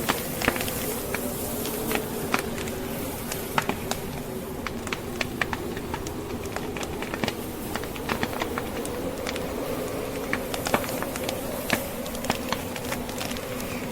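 Wood fire crackling, with irregular sharp pops and snaps from the burning logs, over a steady wavering howl of blizzard wind.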